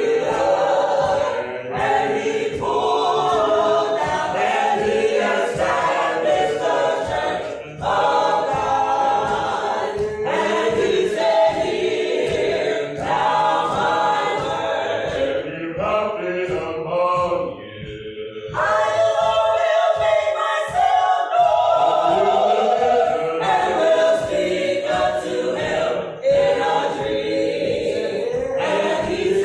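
Gospel choir singing a cappella, sung phrases with short breaths between them.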